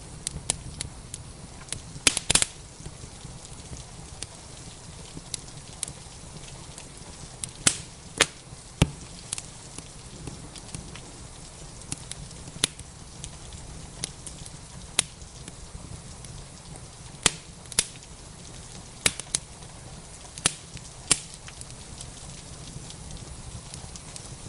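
Wood fire crackling, with irregular sharp pops every second or two, over a steady hiss of rain.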